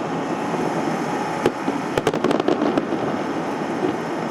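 Fireworks exploding and crackling: a single sharp crack, then a quick cluster of cracks about two seconds in, over a steady dense din.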